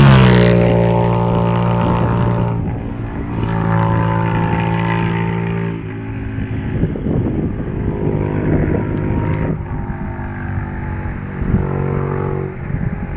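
Aprilia RSV Mille R's V-twin engine through an Akrapovic titanium exhaust, running loud. Its pitch falls over the first two seconds, then holds steady in stretches, with a rougher patch in the middle.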